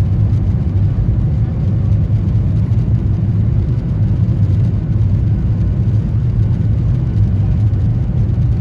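Steady low rumble of a Boeing 737's engines running, with an even noise haze above it.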